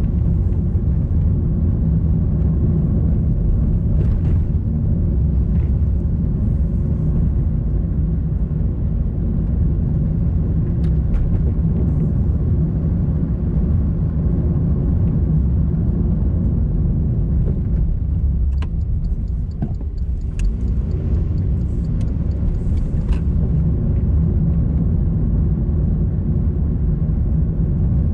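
A car driving along a road: steady engine and road rumble, with a few faint clicks and a brief change in engine pitch about two-thirds of the way through.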